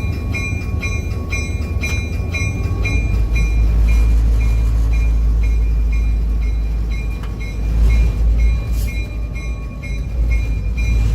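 Diesel locomotive's bell ringing steadily, about two strokes a second, over the low rumble of the Illinois Central GP11's diesel engine, which grows louder about three seconds in as it takes power.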